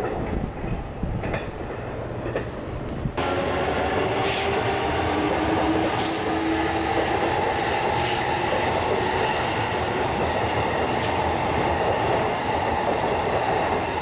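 Train running on rails: steady wheel and track noise with some steady tones over it. About three seconds in the sound changes abruptly and becomes louder and fuller.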